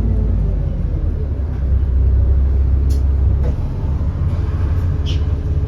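Alexander Dennis Enviro400 bus's 6.7 litre Cummins ISB diesel engine pulling under way with a loud, steady low drone that eases about three and a half seconds in. The engine has an exhaust leak. A couple of short clicks sound over it.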